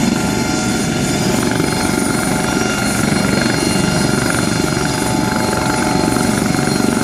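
Aircraft at an airshow running steadily: a high turbine whine over a dense, unbroken rumble.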